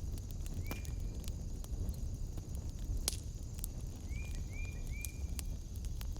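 Wood fire in a fireplace crackling, with frequent sharp pops over a low rumble. Short chirping calls sound over it, one about a second in and three in quick succession past the middle.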